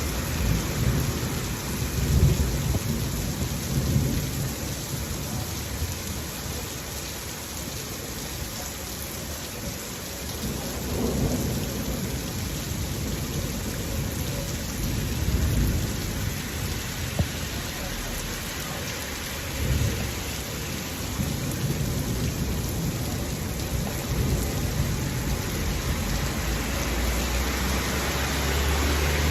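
Steady heavy rain falling, with low rolls of thunder rumbling several times, the loudest about two seconds in.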